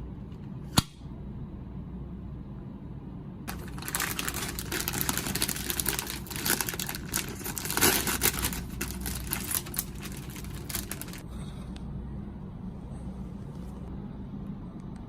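Plastic snack packaging crinkling and crackling for about seven seconds, after a single sharp click near the start, over a low steady hum.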